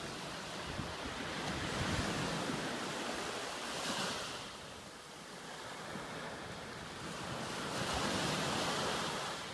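Ocean surf washing in and out on a beach, swelling and easing as each wave comes in, with wind on the microphone.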